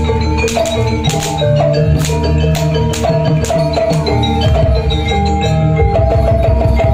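Jaranan gamelan music: metallophones play a stepped melody over sharp drum strokes and a dense low, ringing layer.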